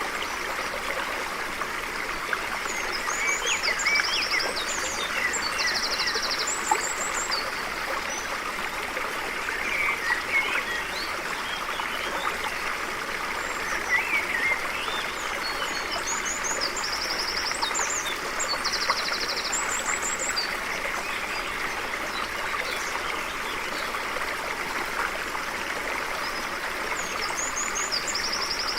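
Stream water rushing steadily, with a songbird singing a short phrase of high chirps and quick trills that comes three times, about every 13 seconds.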